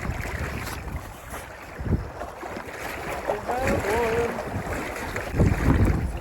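Strong wind buffeting the microphone, a continuous low rumble that gusts harder near the end.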